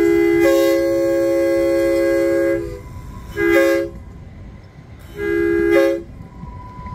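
Train air horn sounding a chord of several notes: a long blast that cuts off a few seconds in, then a short blast and a somewhat longer one.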